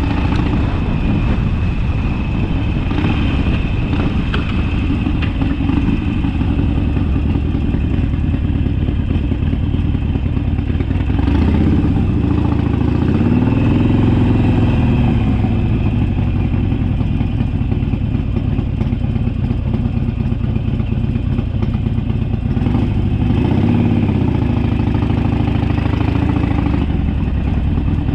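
Harley-Davidson Sportster's air-cooled V-twin engine running under way, its pitch rising and falling twice, near the middle and again near the end.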